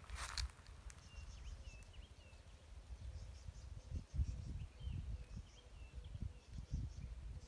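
Open-air ambience among coffee trees: short high chirps of small birds in repeated little bursts, over low rumbles of wind buffeting the microphone, the strongest gust about four seconds in.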